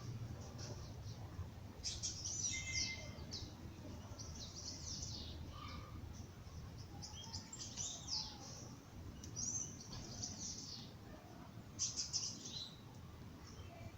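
Birds singing at dawn: several bursts of high, rapid chirping song over a low steady hum.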